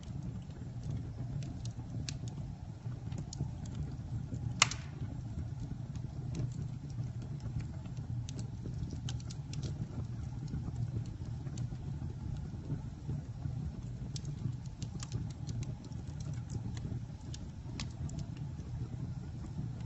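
Campfire burning: scattered crackles and snaps over a steady low rumble, with one loud pop about four and a half seconds in.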